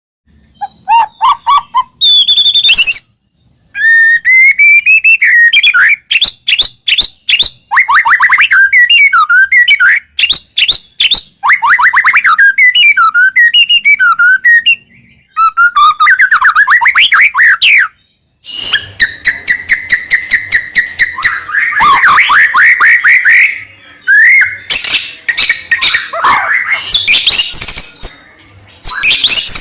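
White-rumped shama (murai batu) singing a long, varied song: loud clear whistles, rapid trills and chattering phrases, broken by a few brief pauses.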